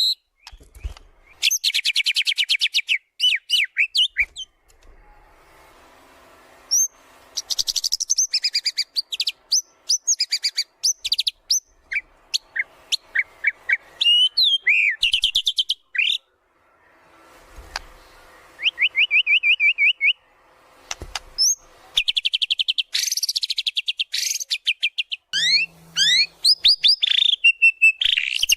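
White-rumped shama (murai batu) singing in full voice, running through its repertoire of learned phrases: bursts of fast, rattling trills and sweeping whistles, broken by short pauses and two softer stretches of low chatter.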